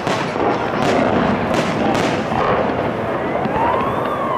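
Aerial firework shells bursting in quick succession: a series of sharp bangs with crackle over a continuous din of the display.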